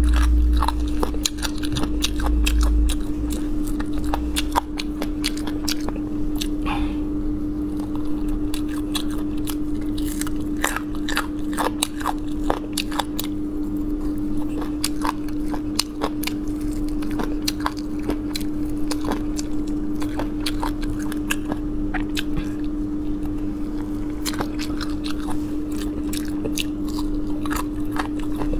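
A person biting and chewing meat and crunchy cartilage off pork bones, with frequent irregular crunches, clicks and wet chewing. A steady low hum runs underneath.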